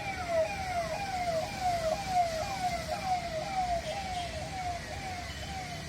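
Emergency vehicle siren sounding amid road traffic: a repeating falling wail, about two sweeps a second, growing slightly fainter near the end, over a steady traffic rumble.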